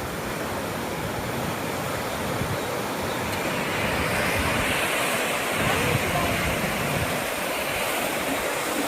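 Ocean surf washing steadily, with wind noise on the microphone, growing gradually louder.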